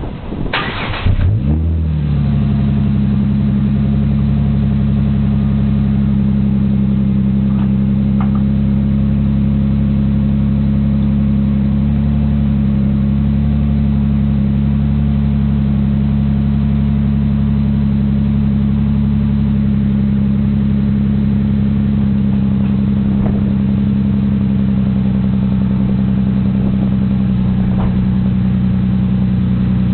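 2007 Dodge Charger's 2.7-litre V6 cranking and catching about a second in, then settling into a steady cold-start fast idle at about 1000 rpm. It runs through a Magnaflow straight-through muffler on a single 2.5-inch pipe with no resonator, which makes it a little louder than stock.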